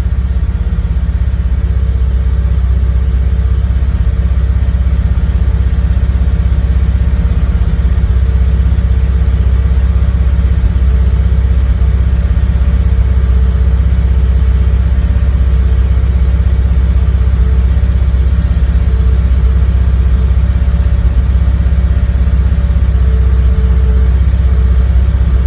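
Car engine with Bosch CIS (K-Jetronic) fuel injection idling steadily about a minute after a dead-cold start, still warming up, with a faint steady tone above the low rumble.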